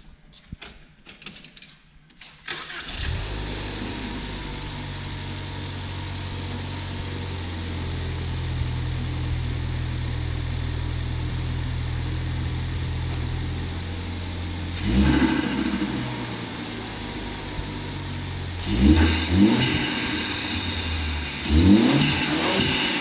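Ford Focus ST's turbocharged four-cylinder, fitted with a Focus RS air box and Green Filter, starts after a few faint clicks and idles steadily. It is then revved: one short blip in the middle, then several louder blips near the end.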